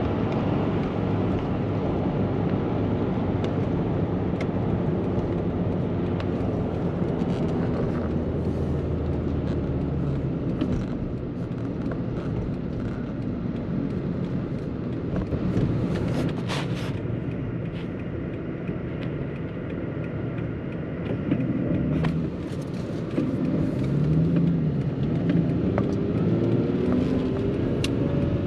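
Steady engine and road noise of a car on the move, heard from inside the cabin.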